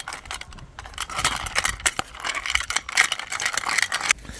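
Irregular clinks, light knocks and rustling from handling cookware and food while preparing noodles.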